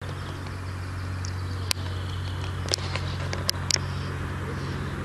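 A steady low engine hum, as of a motor idling, with a few short, sharp high-pitched ticks scattered through it.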